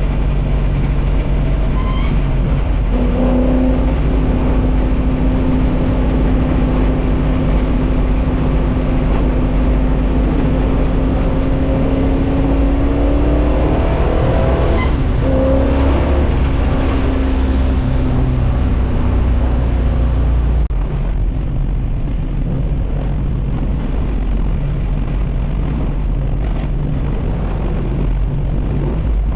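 Carbureted small-block Chevy V8 in a 1964 Buick Special, heard from inside the cabin while driving, running loud with its pitch climbing slowly under load. Around the middle the tone breaks and picks up again lower, as at a gear change. About two-thirds through the engine eases off to a quieter drone.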